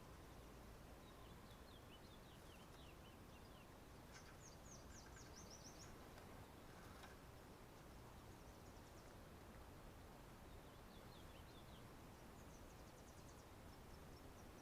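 Near silence: faint outdoor background hiss with distant small birds chirping in quick high trills, in several short bouts.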